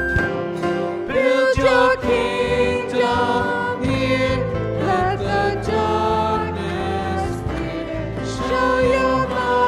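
A hymn sung by a choir with instrumental accompaniment.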